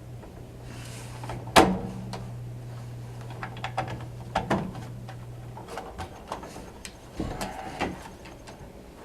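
A series of sharp knocks and clicks, like hard parts being handled and set down, with the loudest one about one and a half seconds in. Under them runs a steady low hum that stops a little past halfway.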